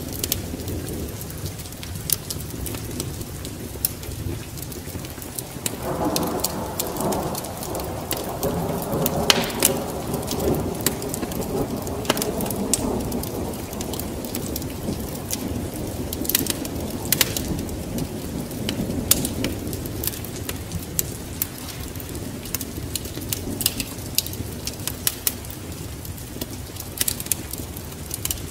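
Rain falling with a rumble of thunder that swells about six seconds in and slowly fades, over a steady bed of sharp crackles and pops from a wood fire.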